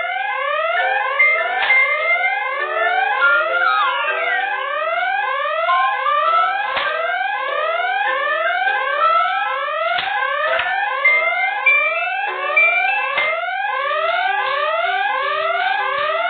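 Electronic siren sound made of quick rising sweeps, about two a second, repeating without a break, with a simple beeping tune over it and a few sharp clicks.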